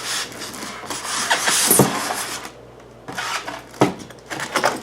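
Packaging rustling and scraping as a hand dryer is lifted out of its box, with a few sharp knocks of handling.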